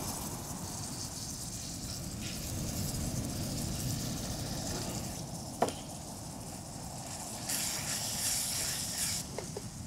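Shallots, green chillies and curry leaves sizzling in hot oil in a metal pan, the hiss swelling at the start as ginger-garlic paste goes in and again near the end as it is stirred with a wooden spatula. A single sharp knock about halfway through.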